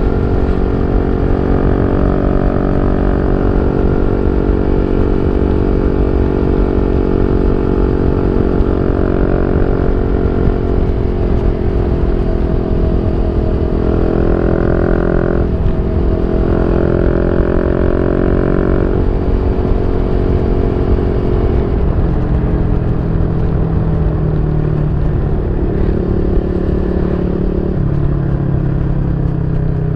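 Yamaha Y15ZR's 150cc single-cylinder four-stroke engine running through an aftermarket YYPANG SD3 exhaust, a loud steady note whose pitch drifts slowly, dropping about two-thirds of the way through and shifting again near the end.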